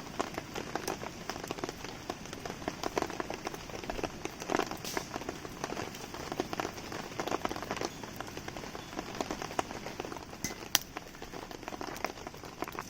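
Steady rain falling and pattering, with a wood campfire crackling through it in many small pops. There is one sharper, louder snap near the end.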